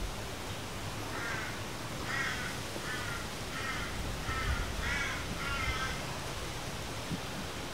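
A bird calling repeatedly: about seven short, evenly spaced calls, a bit more than one a second, starting about a second in and stopping near six seconds in.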